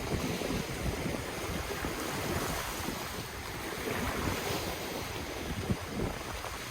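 Ocean waves washing in a steady surf, with wind rumbling on the microphone.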